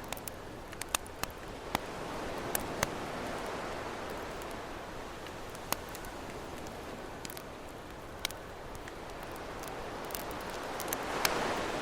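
Campfire crackling, with scattered sharp pops, over the wash of ocean waves; a wave swells and breaks near the end.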